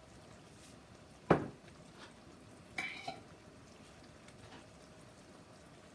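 Cookware and utensils handled at the stove: one sharp knock about a second in, then a short ringing metal clink about a second and a half later.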